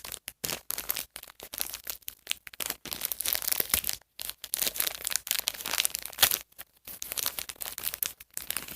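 A small blind bag being torn open and its packaging crinkled and rustled by hand, in irregular bursts that stop near the end.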